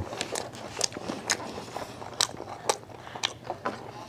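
Close-miked chewing of a mouthful of a soft-tortilla taco filled with steak, kimchi and pepper: irregular crunchy clicks, several a second.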